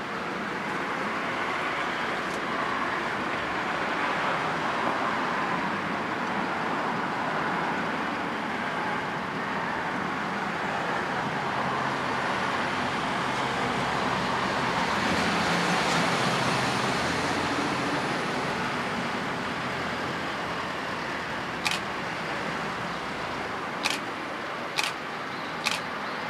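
A steady rumble that swells about halfway through. In the last few seconds come sharp clacks about once a second as an approaching JR East E233-3000 series electric train's wheels cross rail joints.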